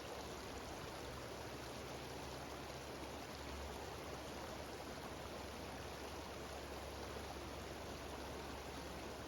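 Mountain waterfall cascading over rocks: a steady rush of falling water that does not change.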